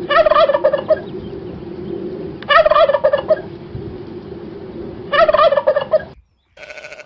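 A farm animal calling three times in short, rapid rattling bursts about two and a half seconds apart, over steady background noise. The calls stop about six seconds in.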